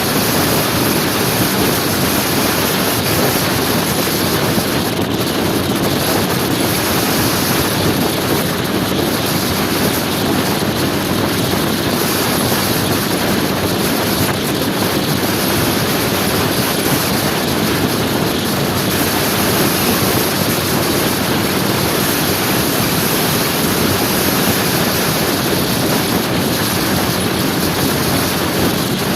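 Steady wind rushing over the microphone with engine and road noise from a motor scooter riding along at a constant speed.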